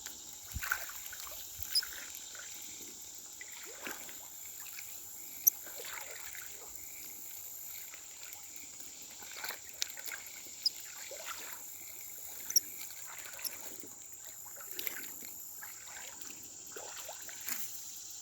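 Water gurgling and splashing in small irregular plops, with a few sharp clicks scattered through and a steady high insect drone behind it.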